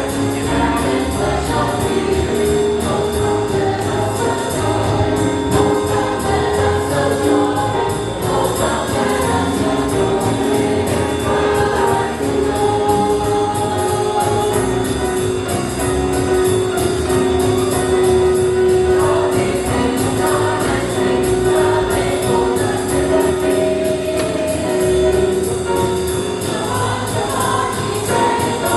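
Church choir singing a swing-style jazz Christmas song over instrumental accompaniment with a steady beat.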